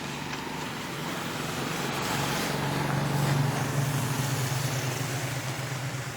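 Motor vehicle engine running with road noise, growing louder to a peak about halfway through and then easing off.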